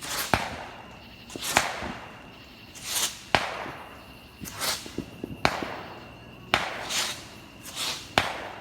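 Fireworks going off in a steady series of sharp bangs, about one every second or so, most with a short hissing whoosh just before or after the bang.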